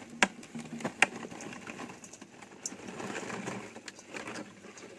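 Handling noise: two sharp clicks in the first second, then uneven rustling.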